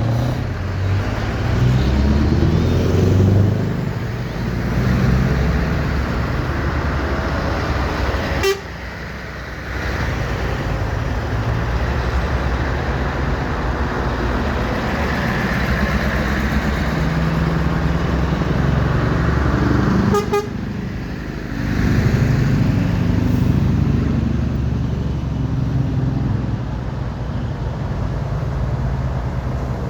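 Heavy lorries' diesel engines running and passing, the engine note rising and falling, with horn toots. There are two brief sharp sounds, about 8 seconds in and again about 20 seconds in.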